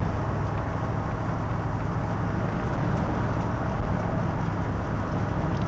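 1973 Pontiac Catalina's V8 running steadily while the car is driven, with a constant low hum of engine and road noise.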